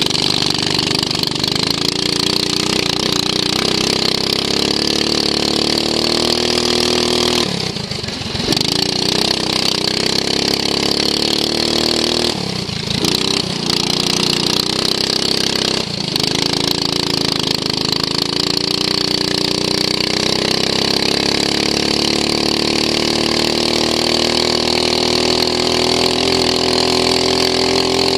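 Racing lawn mower's engine, heard from on board, running hard with its pitch rising and falling. It dips briefly three times, about a third, halfway and three fifths of the way through, as the throttle is eased off and picked up again.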